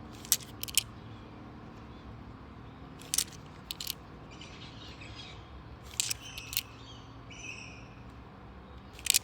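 Coins clicking against each other as they are handled and sorted, about eight separate sharp clicks, with birds calling faintly in the background.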